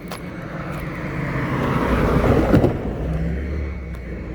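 A car driving past across the railroad grade crossing, its sound building to a peak a little past halfway and then fading away.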